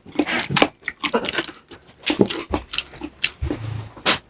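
A person eating close to the microphone: irregular chewing and smacking mouth sounds, a short burst every half second or so.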